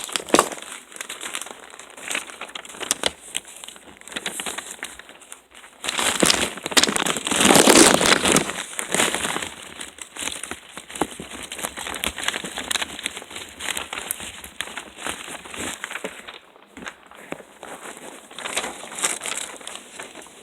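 Crinkling, rustling handling noise with many scattered clicks, louder for a few seconds about six seconds in.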